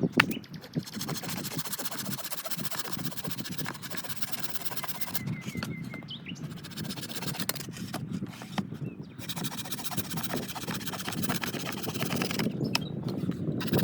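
Wood fire crackling steadily, with dense small pops and a sharper snap just after the start.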